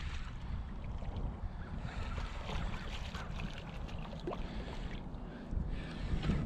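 Wind rumbling on the microphone over the rush of river water, steady throughout, with a few faint ticks.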